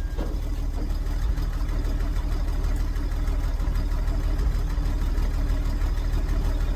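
1963 Jeep Gladiator's engine running at a steady idle.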